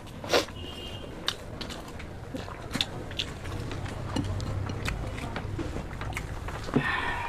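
People chewing and biting mouthfuls of egg chow mein, with many small wet mouth clicks and a sharper click about half a second in.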